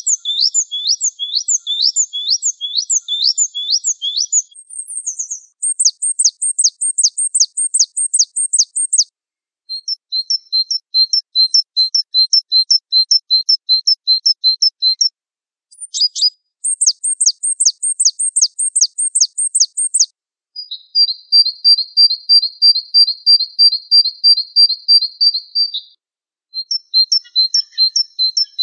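Gelatik Wingko songbird calling: runs of rapid, high chirps repeated several times a second, each run lasting a few seconds with short pauses between runs.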